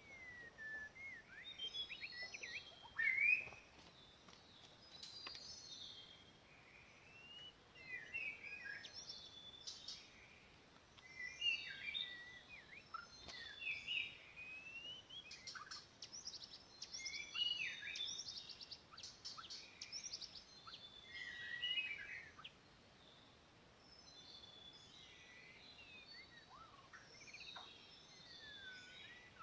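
White-rumped shama (murai batu) song: a stream of varied whistled phrases, slurred notes and quick chirps, with short pauses between phrases and one louder note about three seconds in.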